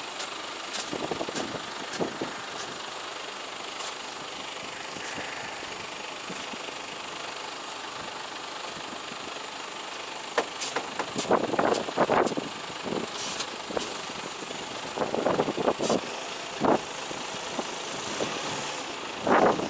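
Truck diesel engine running steadily, with a few short louder noises about halfway through and near the end.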